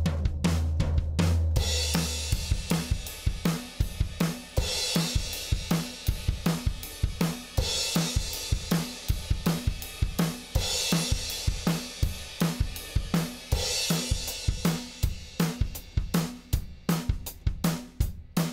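Drum kit playing a steady groove of kick, snare and hi-hat, with a cymbal crash about every three seconds.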